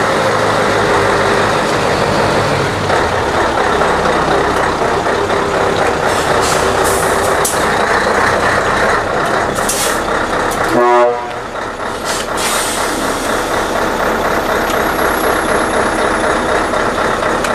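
Scania 143 truck's V8 diesel engine running steadily as the truck manoeuvres, with short hisses of air from the air brakes. About two-thirds of the way through there is a brief louder burst, after which the engine runs somewhat quieter.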